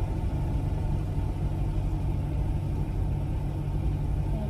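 Diesel semi-truck engine idling: a steady low rumble heard from inside a truck's cab.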